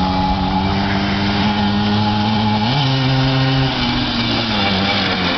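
1974 Kawasaki 125cc two-stroke dirt bike engine running with its muffler on. The revs jump up about two and a half seconds in, hold for a second, then drop back and fall away near the end.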